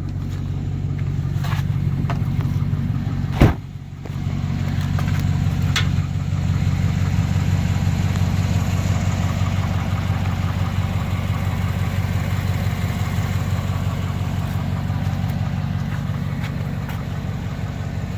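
Engine of a 2007 Chevy Avalanche idling with a steady low hum. One sharp knock comes about three and a half seconds in, and the sound drops off briefly after it.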